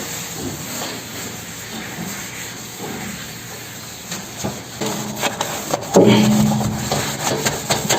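Scrubbing a dirty microwave: a steady rubbing hiss that turns into louder scraping with clicks in the last few seconds.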